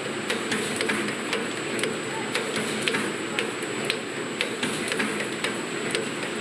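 Factory production machinery running steadily, with a thin high whine and sharp irregular clicks, about two or three a second.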